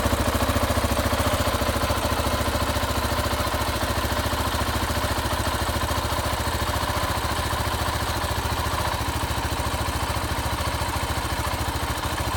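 KTM 690 Enduro R's single-cylinder engine idling steadily through its stock exhaust muffler, with an even, rapid beat of exhaust pulses.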